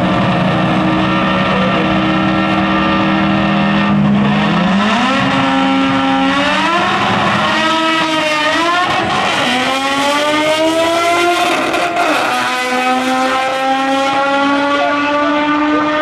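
Engines of a Ford F-150 Lightning pickup and a Mazda RX-3, running hard. They hold steady for about four seconds, then rise in pitch under full acceleration, dropping back at each gear change.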